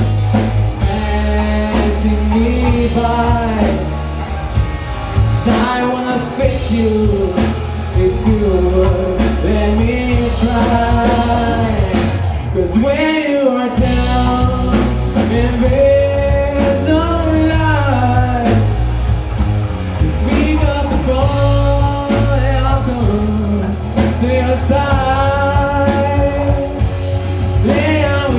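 Live band playing a blues-rock song: a sung melody over guitar, bass and drums with a steady beat.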